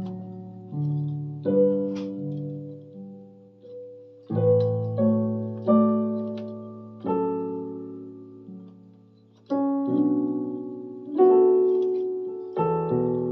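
Electronic keyboard with a piano voice playing a slow, gentle melody over sustained chords. Notes and chords are struck at an unhurried pace and left to fade.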